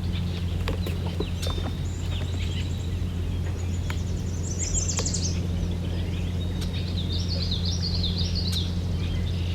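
Small songbirds singing high, rapid trills. A fast trill comes about halfway through, and a series of quick stepped notes follows near the end, all over a steady low rumble.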